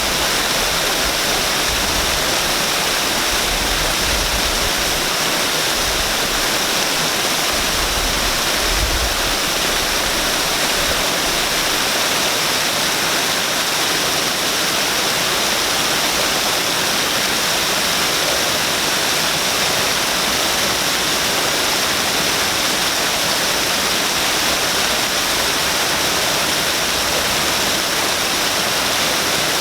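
Waterfall pouring in a steady, even rush of falling water. A low rumble comes and goes during the first third.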